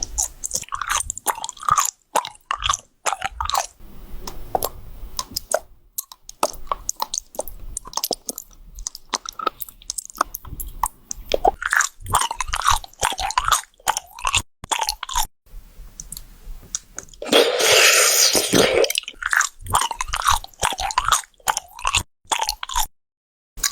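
Close-miked chewing and biting of wax bottle candy: irregular sharp cracks and crunches with wet squishing in between. About seventeen seconds in comes a louder, denser stretch of crunching lasting about a second and a half.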